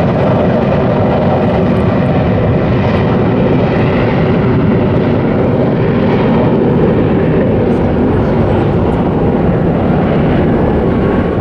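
Boeing 737 jet airliner taking off, its engines at takeoff power making a loud, steady noise.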